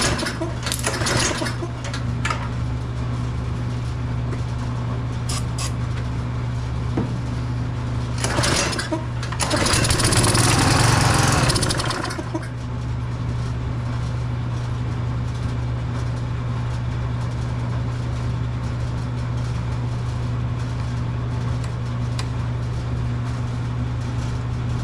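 Tecumseh small engine on a Craftsman pressure washer running steadily on its replacement carburetor. A louder, rushing surge rises for about three seconds some nine seconds in, then it settles back to its steady run.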